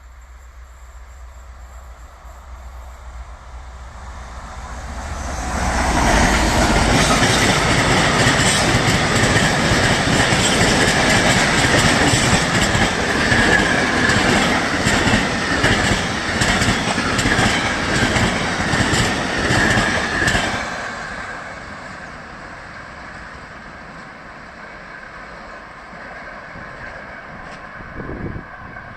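A train passing at speed: the rumble builds over a few seconds, then runs loud for about fifteen seconds with wheels clicking rapidly over the rails and a steady high squeal, and drops away sharply as the last car goes by.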